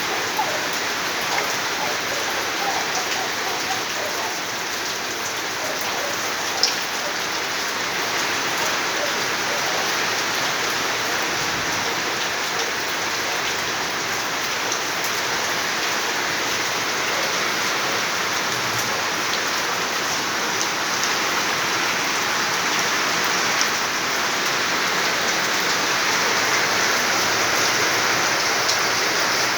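Steady heavy rain falling and pattering on surfaces, with a few brief sharp drips or ticks now and then.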